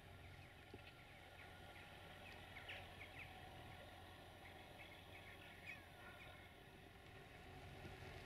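Near silence: faint outdoor ambience with small birds chirping faintly in short scattered calls, fading out about two seconds before the end, over a faint low hum.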